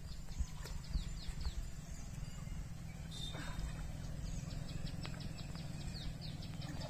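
Small birds chirping: quick runs of short high notes, densest in a rapid series over the last two seconds, with one short buzzy call about three seconds in, over a steady low rumble.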